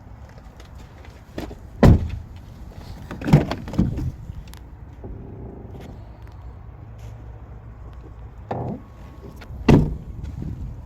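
Doors and panels of a pickup truck being shut and handled: about five heavy thumps, two close together a few seconds in and a loud one near the end.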